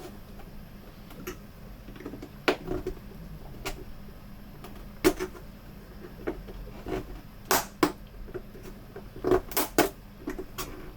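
Irregular sharp plastic clicks and snaps from prying tools and a blade working around the plastic case of a Samsung U32J590UQU monitor, its clips coming loose. The loudest clicks come in a quick cluster near the end.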